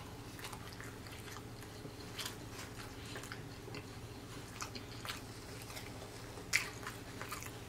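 Close-miked chewing of fried chicken: scattered soft mouth clicks, with one sharper click near the end, over a steady low hum.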